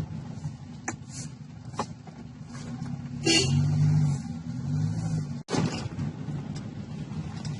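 Toyota Corona Select Saloon's engine running while the car is driven, with a steady low drone whose note swells up and down twice about halfway through. A few short knocks are heard over it, and the sound cuts out very briefly about five and a half seconds in.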